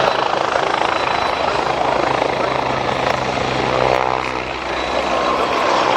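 Westland Wasp helicopter in flight, its rotor and Rolls-Royce Nimbus turboshaft engine running steadily, with a brief dip in level about four seconds in.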